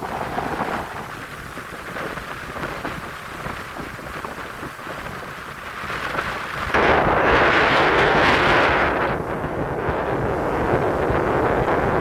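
Strong wind buffeting the microphone over rough surf. About seven seconds in, a louder rush of wind and water comes in suddenly and lasts about two seconds, then eases to a steady, stronger level.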